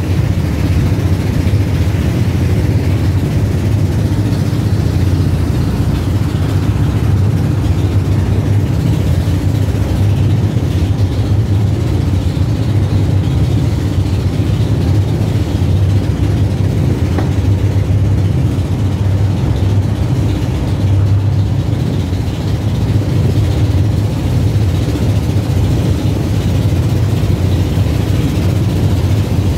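Boat engine running steadily under way, a constant low drone, with wind and water noise from rough waves over it.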